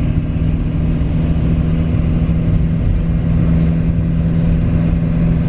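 Steady engine drone and road rumble of a moving vehicle, heard from inside the cabin.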